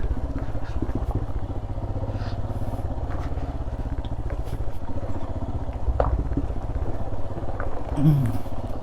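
Royal Enfield Himalayan's 411 cc single-cylinder engine running steadily at low revs as the motorcycle rolls slowly downhill over a rough road, with a few light knocks and rattles.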